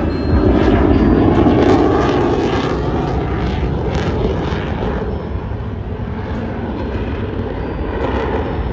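Airplane engine noise as an aircraft flies past, loudest a second or two in and then slowly fading.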